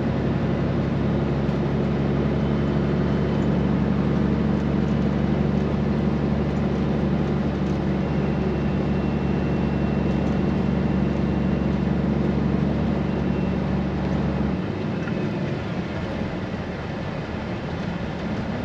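Straight-piped Peterbilt 389 semi truck's diesel engine running at a steady, even note. About 14 seconds in, the deepest part of the sound drops away and it gets a little quieter.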